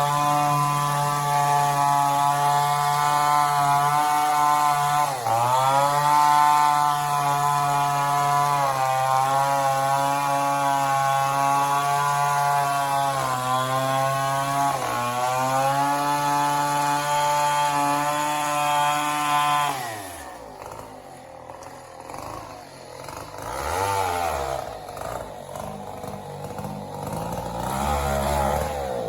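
Two-stroke chainsaw running at high revs while cutting mahogany. Its pitch dips and recovers twice as the chain bites, then the engine stops about two-thirds of the way through, leaving quieter irregular sounds.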